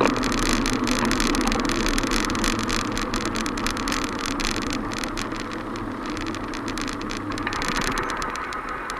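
Steady street traffic and road noise picked up from a moving bicycle, with a motor vehicle's engine most prominent at the start and fading over the first few seconds.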